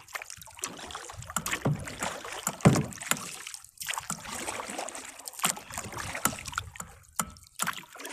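Kayak being paddled: paddle strokes splash and drip in the water about once a second, with a few sharp knocks, the loudest about a third of the way through.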